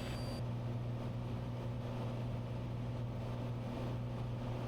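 Cessna 182's piston engine and propeller droning steadily in flight, heard from the cockpit.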